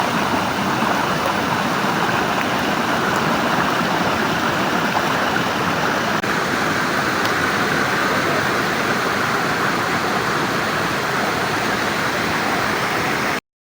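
Loud, steady rush of flowing water, cutting off suddenly near the end.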